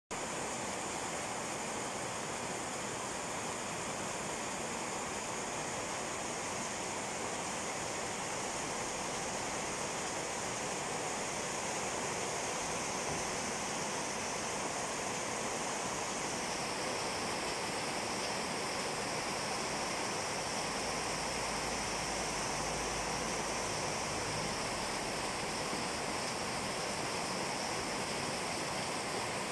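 Steady rain falling on corrugated metal roofs, with runoff pouring and splashing off the roof edges.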